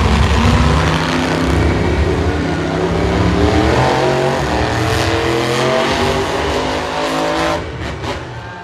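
Monster truck engine running hard and revving, its pitch climbing and falling, then easing off near the end.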